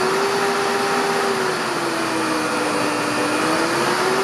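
Drive motor spinning a self-excited DC generator on a test bench, a steady whirring hum with a whine. The whine sags in pitch about a second and a half in and climbs back near the end as the drive speed is changed.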